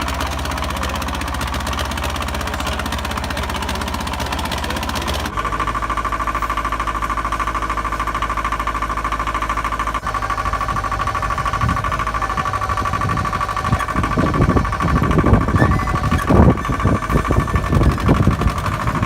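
An engine running steadily, its tone stepping up about five seconds in. From about twelve seconds on, irregular loud thumps and rumbles sound over it.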